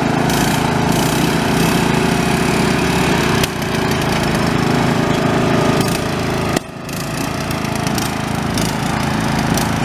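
Riding lawn mower engines running steadily under load during a race, with two brief sudden dips in the sound, about a third and two-thirds of the way through.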